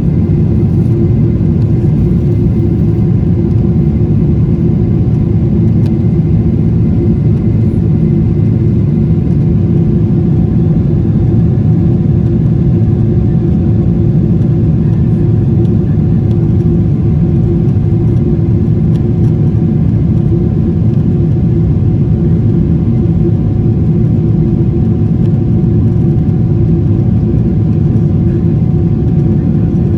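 Steady, loud low rumble of an airliner's engines and airflow heard from inside the cabin, with a few faint steady tones above it.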